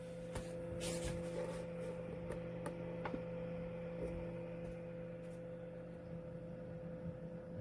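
Small mini dehumidifier running with a steady low hum, with a few light clicks near the start.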